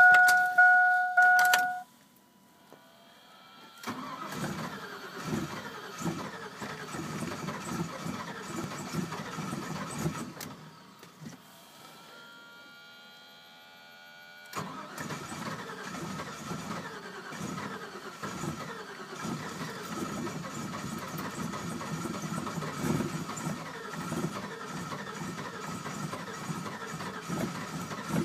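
A loud two-tone chime sounds briefly, then the 1999 Chevy's engine is cranked and starts in extreme cold (−37, no block heater), running roughly. About 12 seconds in there is a quieter stretch with a rising whine, and at about 15 seconds the engine comes in and keeps running with a rough clatter the owner likens to a diesel's.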